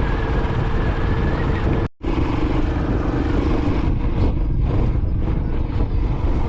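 Royal Enfield Classic 500 single-cylinder motorcycle running steadily at road speed, with wind rushing over the microphone. The sound cuts out completely for a moment about two seconds in, then comes back with a lower, steadier engine note.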